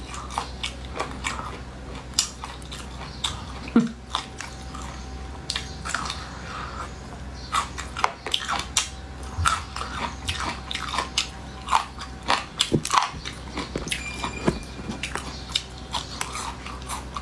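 A person chewing and biting food in chili oil: many irregular wet crunches and mouth smacks, some much louder than others.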